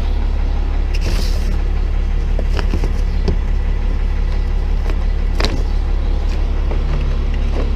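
Tow truck engine idling steadily as a low rumble, with a few light knocks and clinks of loose parts being handled.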